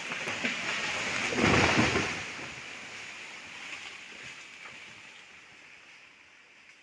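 A felled tree coming down: a rumbling crash about a second and a half in, then a long rustle that slowly dies away.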